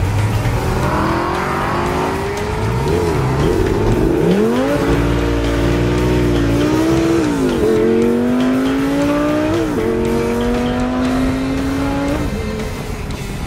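Lamborghini Gallardo's V10 engine pulling through the gears from inside the cabin, its pitch climbing and then dropping sharply at several gear changes.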